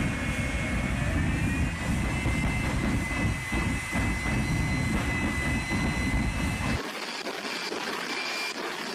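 Jet engine of a jet-powered Freightliner semi truck running loud, a deep roar under a steady high whine that rises slightly about two seconds in. The roar cuts off suddenly about seven seconds in, leaving a quieter hiss.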